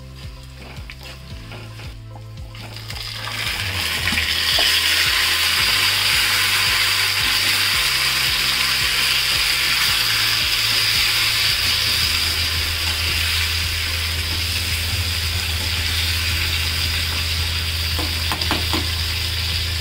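Oil sizzling loudly in a steel kadhai as chopped tomatoes fry with dry red chillies, curry leaves and garlic; the sizzle swells about three seconds in and holds steady. A spatula stirs the pan, with a few sharp taps against the metal near the end.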